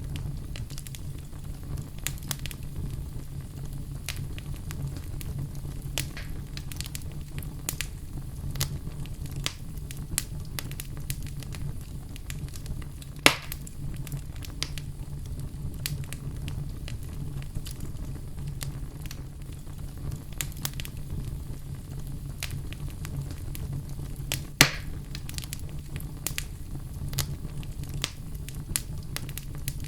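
Wood fire burning in a fireplace, crackling steadily with many small sharp snaps over a low rumble, and two louder pops about halfway through and near the end.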